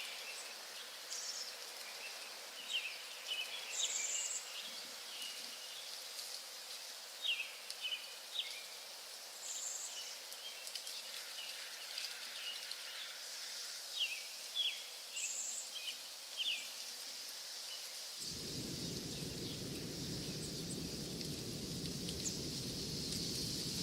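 Recorded nature ambience: small birds chirping in short calls over a steady high hiss. About eighteen seconds in, a low, even noise comes in suddenly and carries on.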